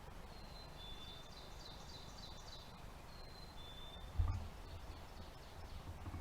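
Songbirds singing in spring woods: a clear two-note whistle, the second note a little lower, sung twice, with a run of quick high chirping notes between. A dull low thump about four seconds in, and low rumbling near the end.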